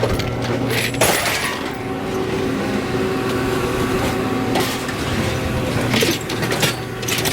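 A heavy machine's diesel engine running steadily, with several sharp clanks and crashes of scrap metal about a second in and again in the second half.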